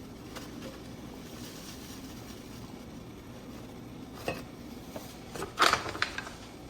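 A few sharp clinks and rattles of kitchenware as ground coffee is put into the pour-over filter, one click partway through and a louder cluster about a second before the end, over a low steady background noise.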